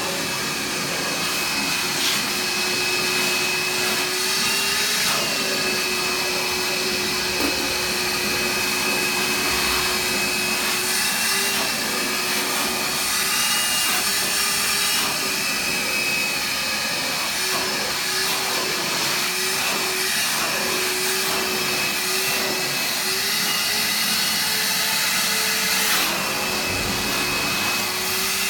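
Shop vac running steadily and loudly. Its motor whine holds a constant pitch with small wobbles now and then.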